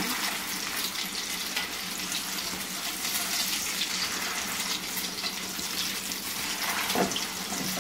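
Egg-coated shami kebabs sizzling steadily as they shallow-fry in hot oil in a pan, with a fine crackle in the hiss.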